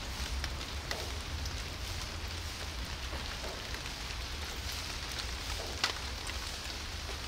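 Light rain falling steadily, with scattered small wet clicks from a cat chewing wet food out of a plastic tub, one click sharper than the rest near the end.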